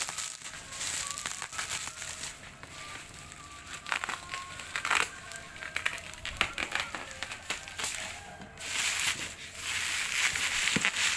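Plastic and cardboard packaging being handled while the machine is unpacked: irregular crinkling and crackling with frequent small clicks, louder in a few stretches such as around five seconds in and near the end.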